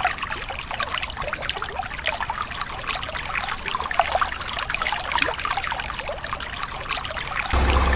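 Water pouring and trickling, with many small splashes and drips. A low engine hum comes back near the end.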